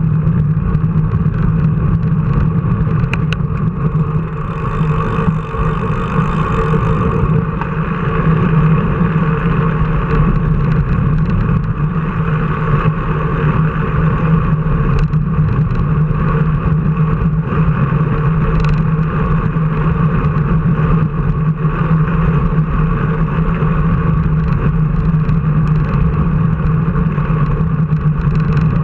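A vehicle engine running steadily at an even speed, as a drone that barely changes in pitch throughout.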